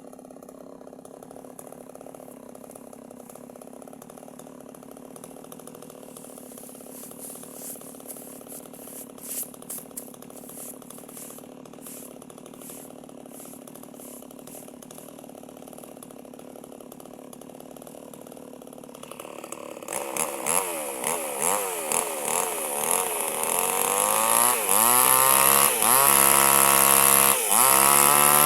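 Chainsaw engine idling steadily, then revved up and down several times about two-thirds of the way in, and finally held at high revs, much louder.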